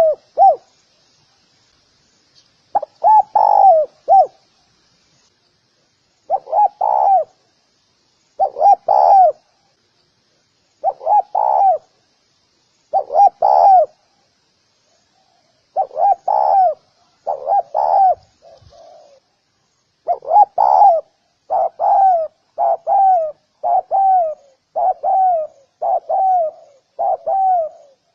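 Spotted dove cooing: short phrases of two or three coos separated by pauses, then in the last third a quicker, even run of single coos, a bit less than one a second.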